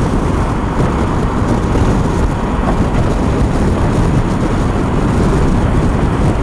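Steady wind rush and engine drone of a Triumph Tiger 1200 three-cylinder motorcycle cruising at road speed.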